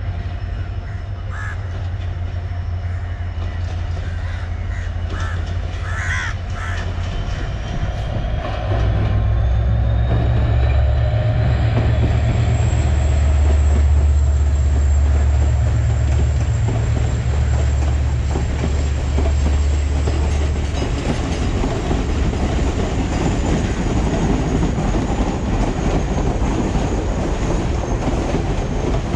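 Sri Lankan diesel-hauled passenger train passing close by. The locomotive's deep engine drone swells about a third of the way in as it comes underneath, with a thin high whine above it. After the locomotive has gone by, past the halfway point, the coaches roll on with a steady rushing of wheels on rail.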